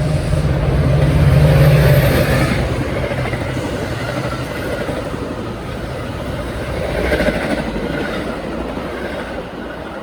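A train passing on the main line: a diesel locomotive's engine runs loud for the first few seconds, then the rolling noise and rattle of the cars carry on and fade near the end.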